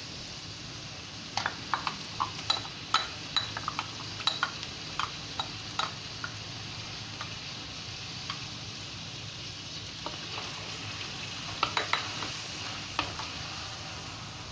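Chili paste frying in hot oil with garlic and onion in a wok: a steady sizzling hiss, with two clusters of sharp pops and clicks as the paste spatters and is scraped in from a bowl.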